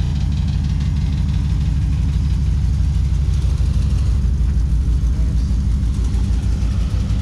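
Engine of an old GMC truck rolling slowly past at low revs, a steady deep rumble.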